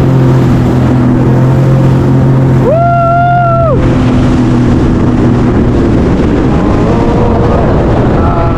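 Jet ski engine running steadily at speed. About three seconds in there is a loud held tone lasting about a second, and the engine's pitch rises near the end.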